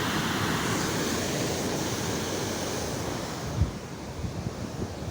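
Steady rush of floodwater with wind buffeting the microphone; the rush drops somewhat about three and a half seconds in, with a sharp low bump from wind on the mic.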